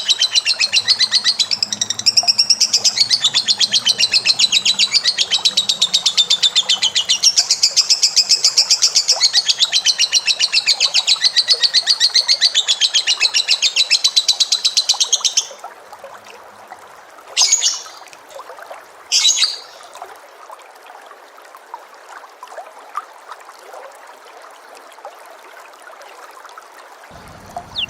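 Pet bird singing a long, fast trill of rapidly repeated high notes for about fifteen seconds, then falling silent; two short calls follow a couple of seconds later, and the song starts again at the very end.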